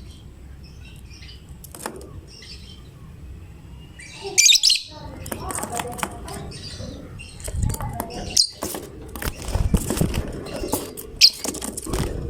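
Lovebird chirping: a few faint chirps, then about four seconds in a loud shrill burst of calls, followed by rapid, busy chirping and clicking. Some low thumps are mixed in later on.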